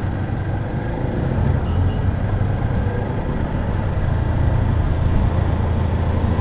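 Rusi KR200 dirt bike's single-cylinder engine running steadily while riding, under an even rush of wind and road noise.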